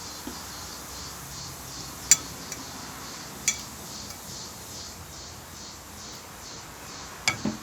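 Cutlery clinking against a plate while eating, a few sharp separate clinks about two, three and a half and seven seconds in, over a steady faint background noise.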